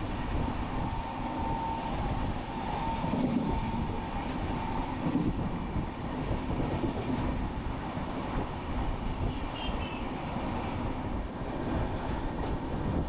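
Passenger train running at speed, the steady rumble and rush of its wheels on the rails heard through an open carriage door. A faint steady whine sits over it for the first few seconds.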